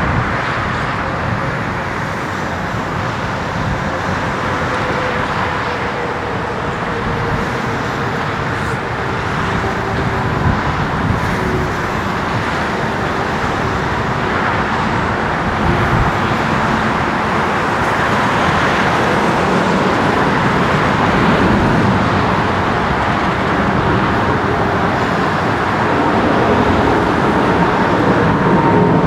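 Steady road-traffic noise mixed with the sound of the Boeing 777F's jet engines, growing slowly louder toward the end, with a faint whine held underneath.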